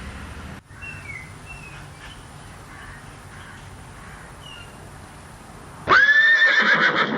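A horse whinnying once near the end, a loud call of about a second. Before it, a faint outdoor background with a few faint high chirps.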